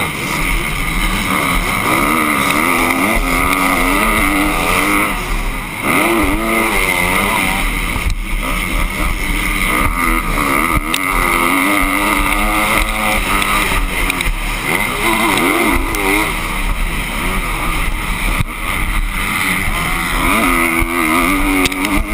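Motocross dirt-bike engines racing, several at once, their pitch repeatedly rising and falling as the riders open and close the throttle.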